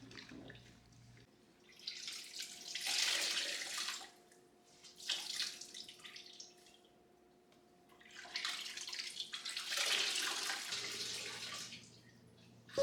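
Water running and splashing in three bursts: one of about two seconds, a brief one, then one of about three seconds.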